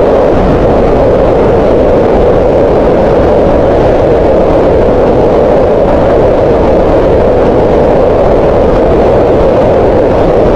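Green noise: a loud, steady, unchanging rush of noise centred in the middle of the pitch range, with little in the highs.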